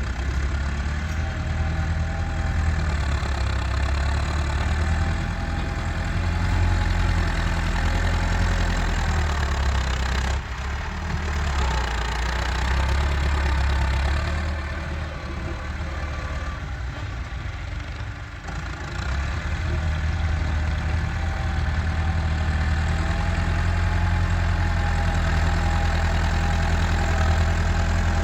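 Massey Ferguson 385 tractor's four-cylinder diesel engine running with a steady low rumble. It changes abruptly a few times and is quieter for a few seconds in the middle.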